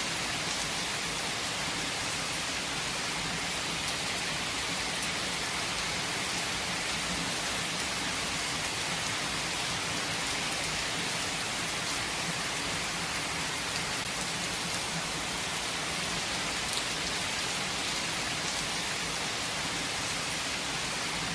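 Steady rain falling, a constant even hiss with scattered individual drops ticking on surfaces.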